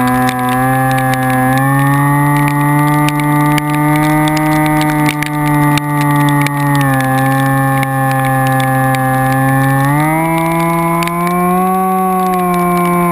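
Vehicle engine running at steady revs, its pitch dropping and rising in steps a few times and settling higher near the end, with scattered faint ticks over it.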